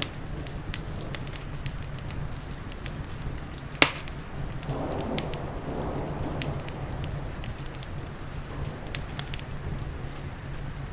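Wood fire crackling with scattered sharp pops, one loud pop about four seconds in, over a steady low rumble of the storm and rain.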